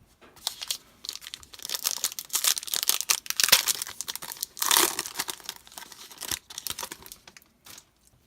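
Foil wrapper of a trading-card pack being torn open and crinkled by hand, a run of crackling that grows busiest a little past the middle and thins out near the end.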